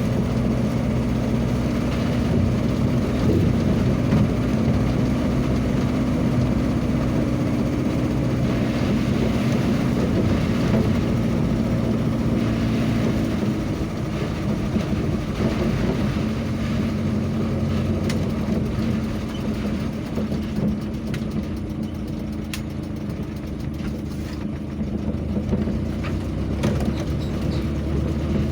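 A vehicle engine running steadily on the move, under continuous road and wind noise, easing off slightly in the second half.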